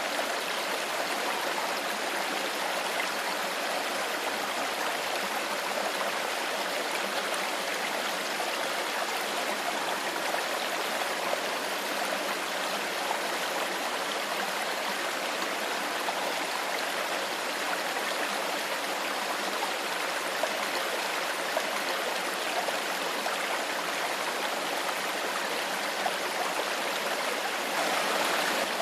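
Shallow stream flowing and burbling steadily over stones.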